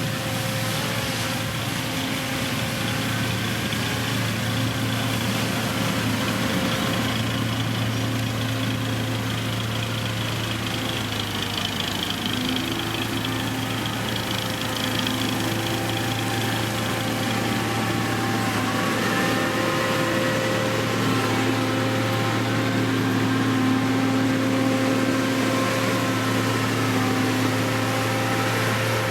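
Engine of a heavy road-construction machine running steadily with a constant low hum.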